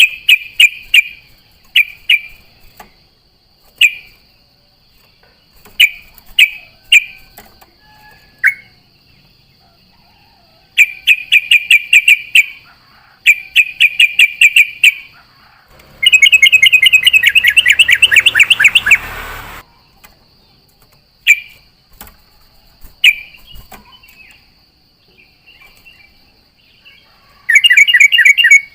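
Yellow-vented bulbul (trucukan) singing: scattered short chirps and several fast runs of rapidly repeated notes, the longest and loudest lasting about three seconds past the middle. A steady high-pitched whine runs underneath.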